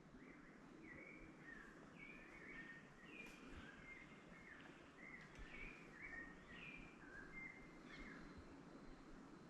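Faint bird calls: many short chirping notes, several overlapping, repeating throughout over a quiet outdoor background.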